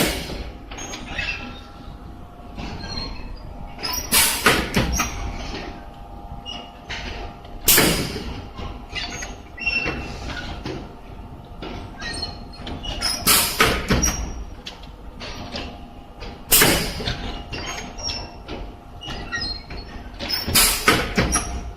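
High-frequency embossing machine for shoe uppers working through its press cycles: a loud, noisy burst about every three to four seconds, six in all, over a steady machine hum.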